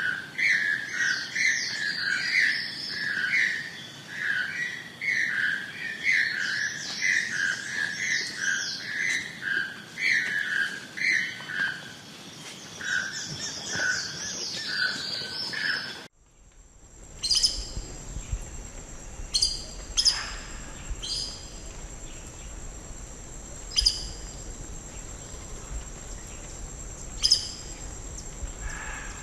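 Toucans calling in forest: a long run of repeated, evenly paced calls. About halfway through the sound cuts to a different scene, with a steady high thin whine and a sharp single call every couple of seconds.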